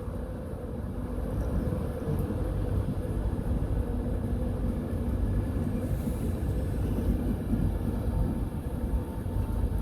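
Class 91 electric train with driving van trailer 82213 passing: a steady low rumble with a faint hum over it.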